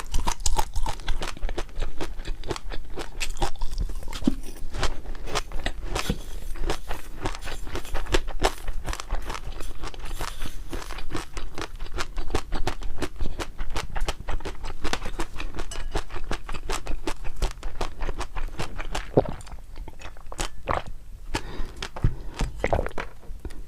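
A person chewing crunchy food, a dense run of small crisp crunches and clicks.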